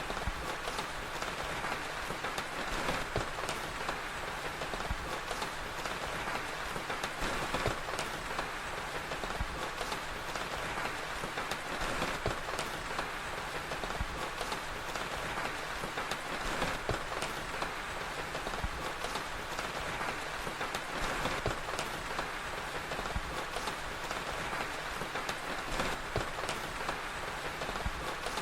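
Steady rain mixed with a crackling fire: a constant hiss of rain with scattered small pops and crackles.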